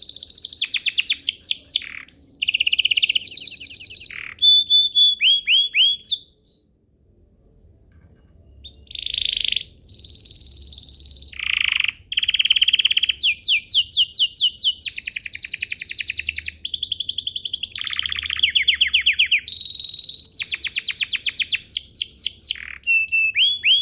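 Domestic canary singing a long song of fast trills and quickly repeated note phrases, changing pitch from phrase to phrase, with a pause of about two seconds some six seconds in.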